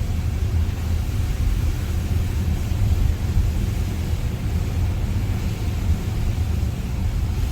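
Steady low rumble of a moving car, engine and road noise.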